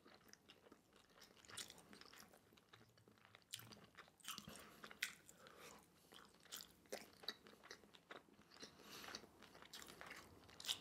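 Faint close-up chewing of a mouthful of pan-fried rice noodle rolls, heard as scattered soft mouth clicks and smacks.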